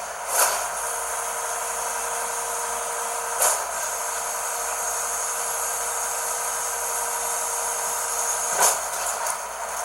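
Garbage truck running with a steady mechanical whine, broken by three short bursts of noise: one about half a second in, one about three and a half seconds in, and one near the end.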